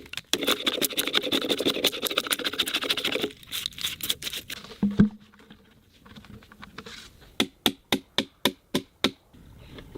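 Hand tools working wood: about three seconds of rapid scraping or rasping, a single thump, then a quick run of about seven sharp knocks, roughly three a second.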